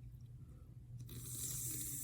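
Wet eating sounds from buttery crab and shrimp, soft squishing over a low steady hum. About a second in there is a sharp click, then a steady hiss-like rustle.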